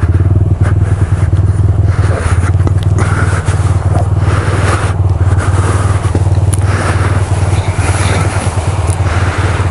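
Footsteps crunching in snow about once a second over a heavy, steady rumble of strong wind buffeting the microphone.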